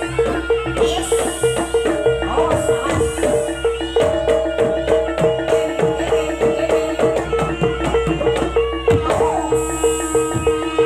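Javanese jaranan music: tuned gong-chime percussion beating one note on a steady fast pulse over drums, with a melody line weaving above.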